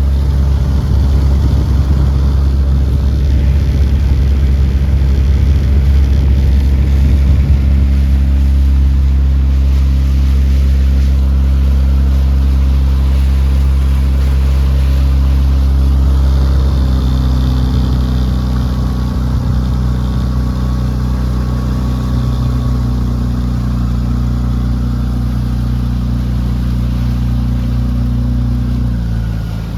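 Motorboat engine running steadily under way, with water and wind noise; the engine note drops near the end as the throttle comes back.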